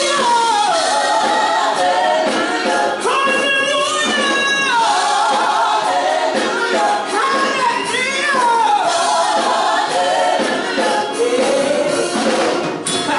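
Gospel worship song: voices singing together over music.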